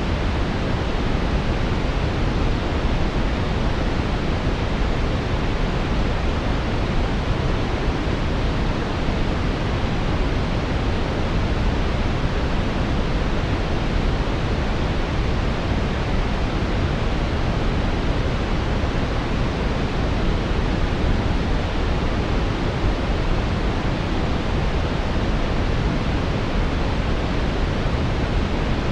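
Steady brown noise: an even, deep rushing hiss with its weight in the low end, unchanging throughout.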